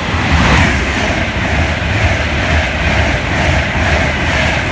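Class 390 Pendolino electric express train passing at speed: a loud, steady rush of wheel and air noise over a deep rumble.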